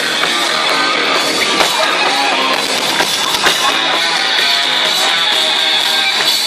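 Hard rock band playing live, electric guitars to the fore, in a loud recording with no bass.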